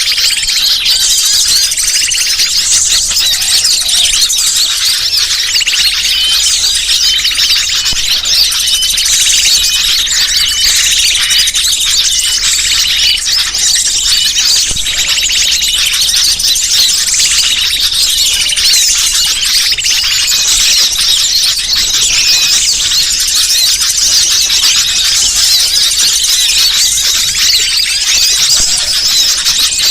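Bird-lure (pikat) recording: a dense, unbroken chorus of many small birds' high chirps and squeals, loud and steady.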